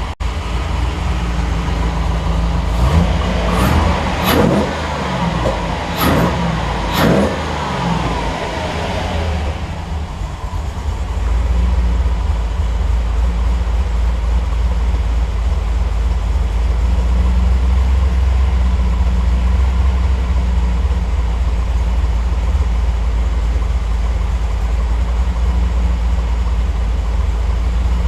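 Triumph TR8's Rover V8 revved up and down a few times in the first several seconds, then settling into a steady idle while warming up on the Megasquirt warm-up settings.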